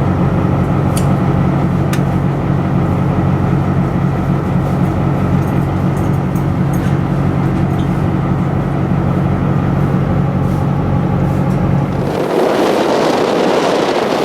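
Boat engine running at a steady pitch with a regular low throb. About twelve seconds in the engine note drops away and a loud rush of wind and water takes over.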